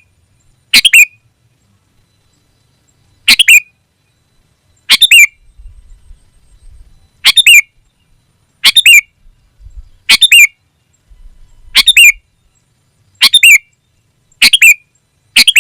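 Sooty-headed bulbul (kutilang) calling: a short, loud chirping phrase repeated about ten times, roughly every one and a half seconds, as a lure call to challenge a rival.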